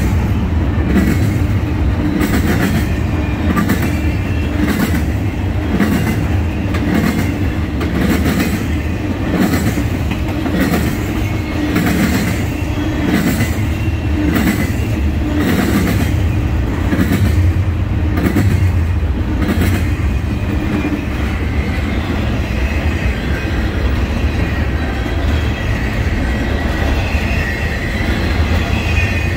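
Double-stack intermodal freight cars rolling past close by: a steady low rumble with a regular clickety-clack of wheels over rail joints. The clicking fades after about two-thirds of the way through, and a faint high wheel squeal comes in near the end.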